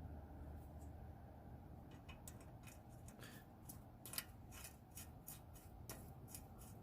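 Faint small metallic clicks and light rattling, several a second, starting about two seconds in, as steel flange lock nuts are handled and threaded onto an engine stud.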